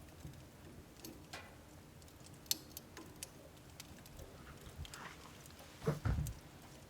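Wood burning in a home wood stove, crackling with irregular sharp pops and ticks. Near the end there is a louder, deeper burst of crackling.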